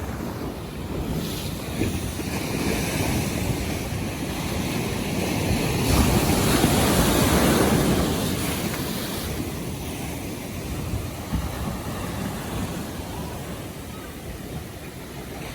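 North Sea waves washing in, with wind on the microphone; one wave swells loudest about six seconds in and fades away over the next few seconds.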